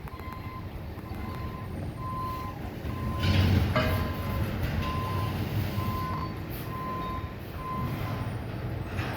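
Waste-container delivery truck backing up, its reversal alarm beeping about one and a half times a second over the diesel engine's low rumble. About three seconds in there is a short, loud hiss.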